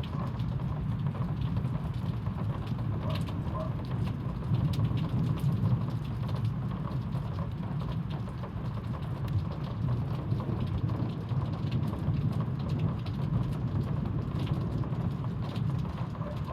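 Heavy rain falling in a severe thunderstorm: a steady downpour with scattered drop ticks over a low, even rumble.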